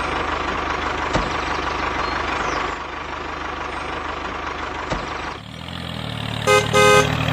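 Tractor engine running steadily with a fast, even chug. About five and a half seconds in it changes to a different, lower engine note, and two short beeping tones sound near the end.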